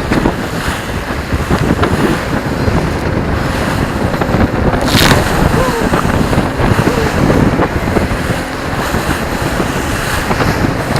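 Small motorboat running under power through choppy sea, with wind buffeting the microphone and water rushing and slapping against the hull. A sudden splash comes about five seconds in.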